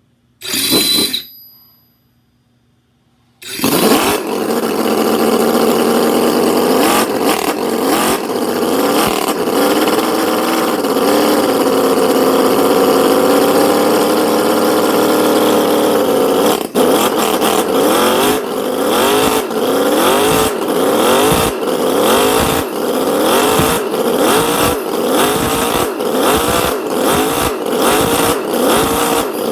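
Enjomor 1/4-scale four-stroke V8 model engine: a short burst about half a second in, then the engine starts about three and a half seconds in and runs, its revs rising and falling. From about halfway it is revved in quick repeated throttle blips.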